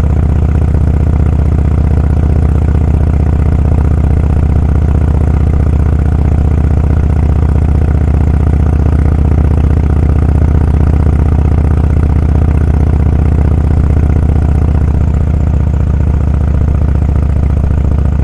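Motorcycle engine running steadily while cruising, a loud low drone that holds nearly the same pitch throughout.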